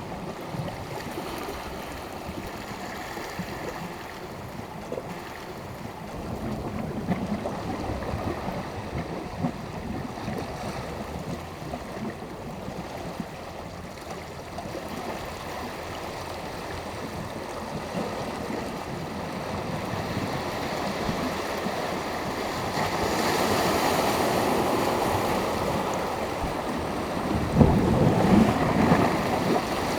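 Small sea waves washing onto the shore, a steady wash that swells as waves come in, with a louder wave breaking and splashing near the end. Some wind on the microphone.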